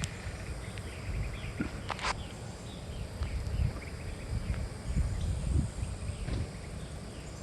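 A low, uneven rumble that swells and fades, the unexplained 'sound in the sky' heard off in the distance, with small birds chirping over it.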